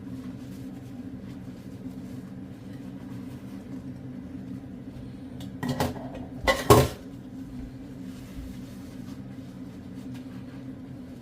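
A steady low hum, broken about six seconds in by a short clatter and then a louder knock.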